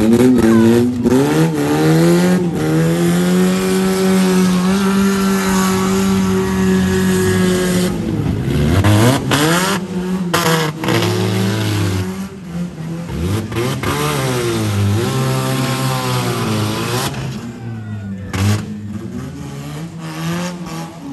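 Demolition-derby car engines revving hard, pitch climbing and falling. A high rev is held steady for several seconds, then drops away. Several sharp bangs come about halfway through and again near the end.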